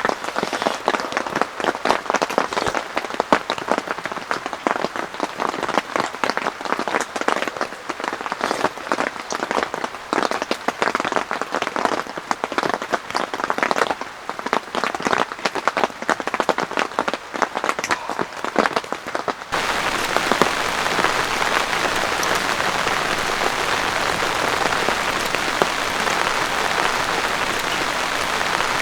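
Heavy rain falling as a dense crackle of drops hitting a surface; about two-thirds of the way through it switches abruptly to a smoother, steadier hiss of rain.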